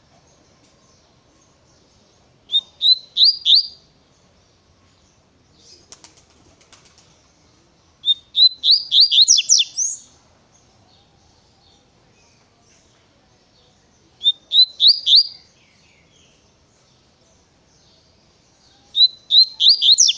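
Double-collared seedeater (coleiro) singing its fast tui-tui song: four short phrases of rapid, sweeping high notes, a few seconds apart. A faint rustle sounds between the first two phrases.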